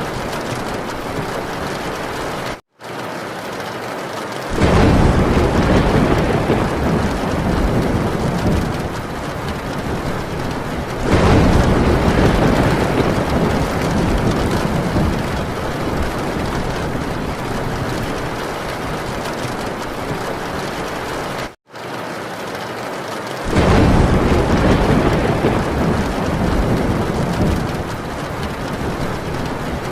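Heavy rain drumming steadily on a tin roof, with long rolls of thunder rumbling in three times, starting about four, eleven and twenty-three seconds in. The sound drops out to silence for a split second twice, near three seconds and about twenty-two seconds in.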